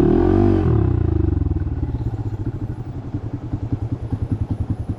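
Motorcycle engine blipped once, its pitch rising and falling back, then idling with a fast, even pulsing beat.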